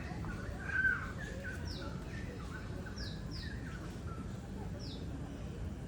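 Birds chirping: a handful of short, high calls that sweep downward in pitch, spaced a second or so apart, with one louder, lower call about a second in, over steady low background noise.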